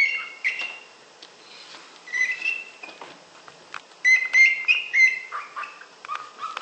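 Cockatiel giving short, high chirps in three clusters about two seconds apart, with a few lower notes near the end.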